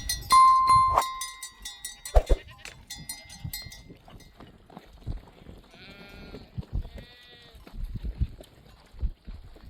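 Sheep bleating, two calls about six and seven seconds in, after bells on the flock clank and ring during the first few seconds.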